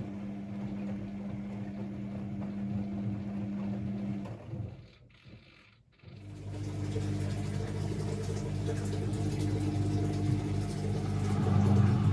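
Constructa Energy 1000s washing machine running with a steady motor hum. It stops for about two seconds near the middle, then starts again with a different hum that grows louder toward the end.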